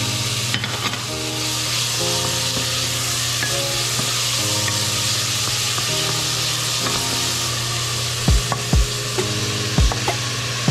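Diced tomatoes frying with a steady sizzle in a stainless steel pot while a wooden spatula stirs them, over soft background music. From about eight seconds in there are a few short low thumps.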